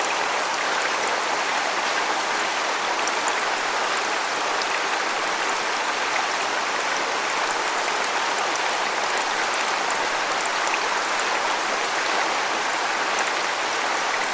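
Waterfall: water falling and splashing in a steady, even rush, mostly hiss and spatter with little deep rumble.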